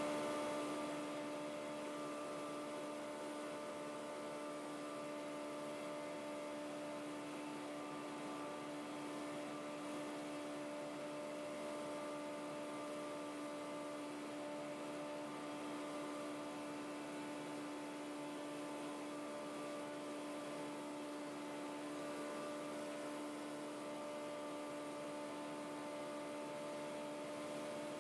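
Steady hum in a Cessna 150's cockpit audio: a few fixed tones over faint hiss, easing slightly in the first couple of seconds and then holding level.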